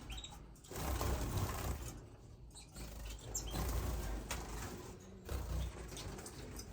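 Small cage finches fluttering their wings, with a few short high chirps, over irregular low rumbling noise.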